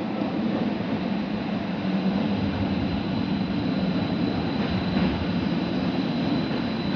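Tyne and Wear Metro train running steadily through the station, a continuous low rumble with a faint high whine above it.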